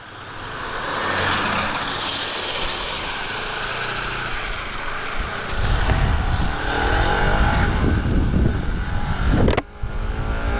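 Motorcycle pulling away and accelerating, its engine note rising in repeated climbs through the gears, over a heavy wind rumble on the microphone. The sound breaks off sharply near the end and another rising engine run follows.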